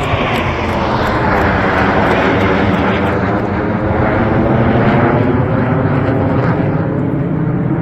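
Military aircraft flying low past the crowd at an air display, its engine noise loud and steady throughout.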